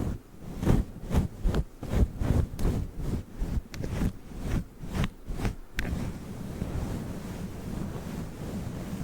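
Fluffy microphone cover rubbed over the microphone: rhythmic swishing strokes, about two a second, then a steady low rumbling rustle from about six seconds in.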